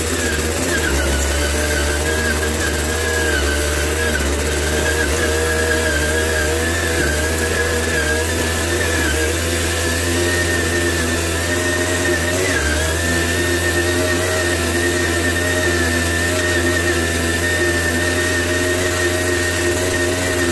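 Tomos CTX 80's 80 cc two-stroke single-cylinder engine running at steady revs while being ridden along a dirt track, with a brief dip in pitch about twelve seconds in.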